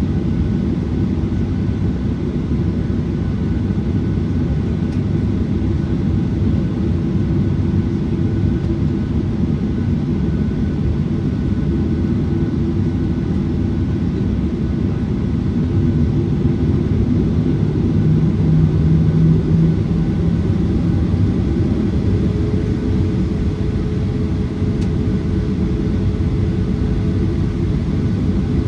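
Cabin noise inside a Boeing 737-900ER: a steady, loud rumble from its CFM56-7B jet engines and airflow, with engine tones that change pitch about twenty seconds in.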